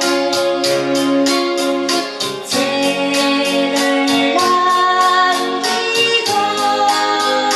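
A person singing a song over instrumental accompaniment with a steady beat of about three strokes a second.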